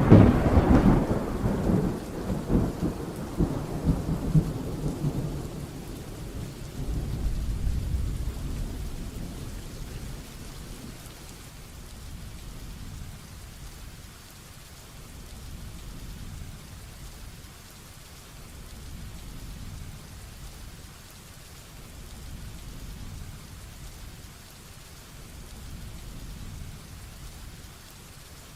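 A loud peal of thunder rumbling and dying away over the first ten seconds or so, with a second, deeper roll around eight seconds in. Heavy rain falls steadily underneath and carries on alone once the thunder fades.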